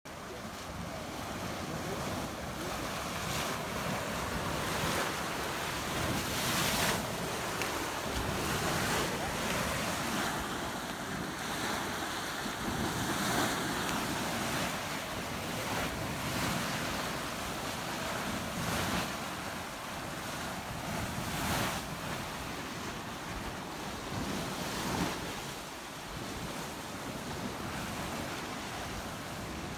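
Boiling mud pot churning: a continuous surging noise with brief louder surges every few seconds.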